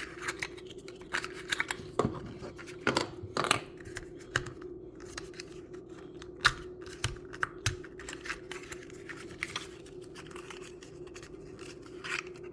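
Packaging of a small plastic miniature craft kit being opened and handled: irregular clicks, scratches and tearing of small plastic parts and wrappers, over a steady faint hum.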